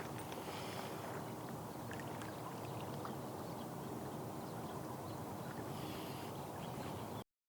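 Small waves lapping at the shore: a steady wash with scattered faint ticks and a faint low hum underneath. It cuts off abruptly about seven seconds in.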